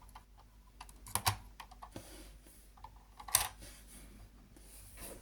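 Plastic Lego parts clicking and clattering as the model is handled and worked, in scattered small knocks. There is a short cluster of clicks about a second in and a louder clatter past the middle.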